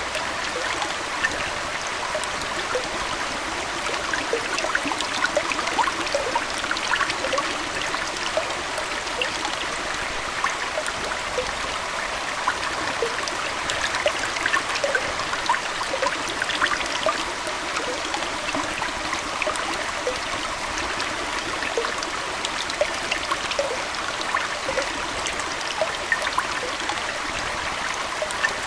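Aquarium water flowing and trickling steadily, with a constant scatter of small bubbling plinks.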